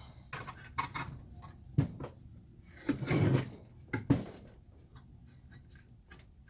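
A few separate knocks and clunks from working on a bent amplifier chassis, with a longer scraping clatter about three seconds in.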